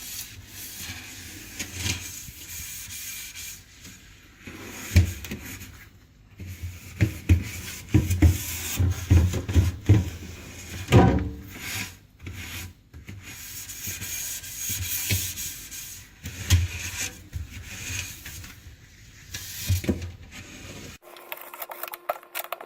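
Scrubbing and wiping the inside of a refrigerator by hand: irregular rubbing strokes with scattered knocks and bumps against the fridge. It stops abruptly near the end.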